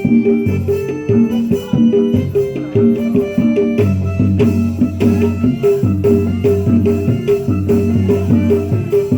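Traditional Indonesian instrumental music: pitched percussion repeats a short figure of struck notes over a busy drum and rattle rhythm.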